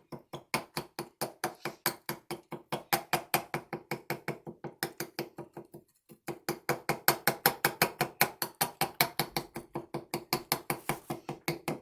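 A fork jabbing rapidly into milk-soaked Oreo cookies and knocking against the bowl, about six taps a second, with a short pause about six seconds in.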